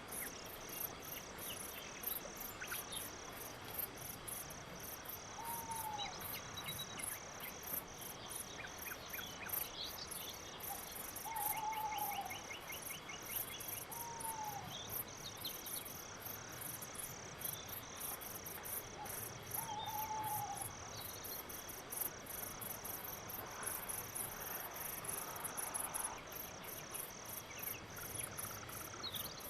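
Crickets chirping in a steady, even rhythm of about two to three chirps a second, with a few short arched calls from another animal heard four times.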